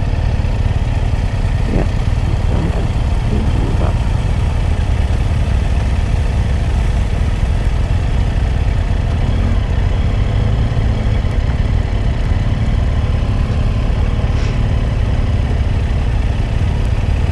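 Triumph Tiger 800 XRx motorcycle's three-cylinder engine running at road speed: a steady low rumble with road noise, unbroken throughout.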